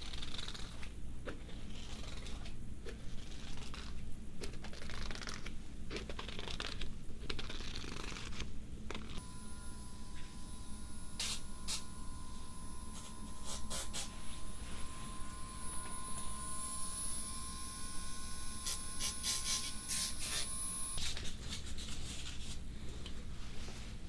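Close crinkling and scratching handling noises. About nine seconds in they give way to several steady high tones with sharp clicks, which stop suddenly about 21 seconds in, and the scratching returns.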